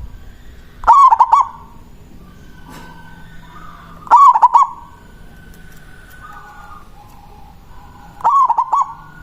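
Zebra dove (perkutut) cooing its manggung song: three short phrases of quick rolling coos, about four seconds apart.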